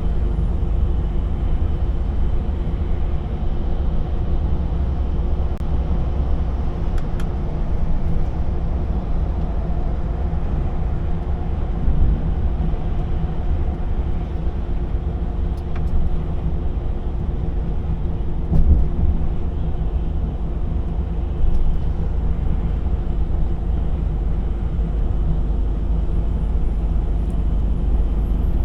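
DAF XF 480 truck on the move: its engine runs steadily under a low road rumble, with a few brief louder bumps about twelve, nineteen and twenty-one seconds in.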